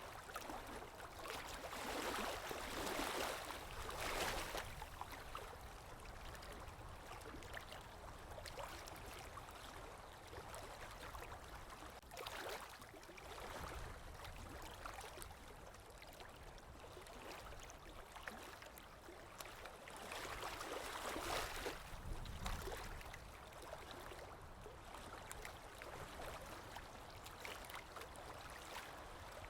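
Sea waves washing in, a steady hiss of water with louder surges as waves break: a few seconds in, briefly near the middle, and about two-thirds through.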